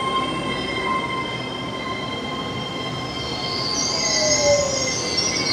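GWR Intercity Express bi-mode train moving slowly alongside the platform, running on electric power with a steady whine. A high-pitched wheel squeal rises about three and a half seconds in, with a short falling tone under it.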